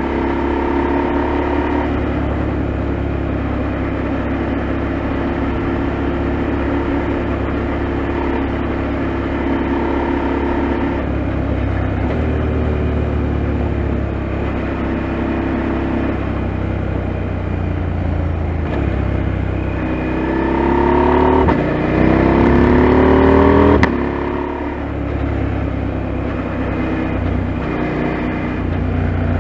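KTM 890 Adventure's parallel-twin engine running under way at a steady pitch, then revving up for about four seconds near the end, its pitch climbing, before dropping back suddenly.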